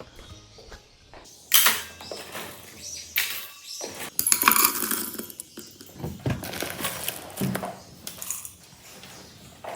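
Clattering and rattling of a dry parrot food mix of seeds and nuts against feeding dishes, in several separate bursts, the loudest about a second and a half in and around the middle.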